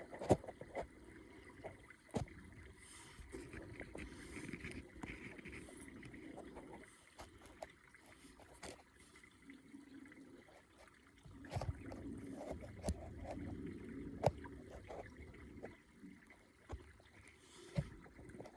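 Rustling and handling noise that swells and fades, with many scattered short clicks and knocks, a few louder knocks around the middle and near the end.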